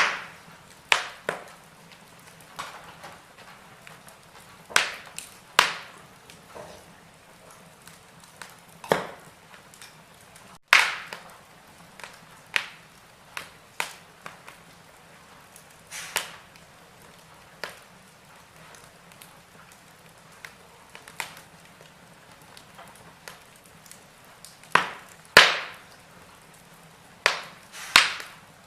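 Firewood burning in a fireplace: irregular sharp crackles and pops, a few of them loud snaps, over a faint steady hiss.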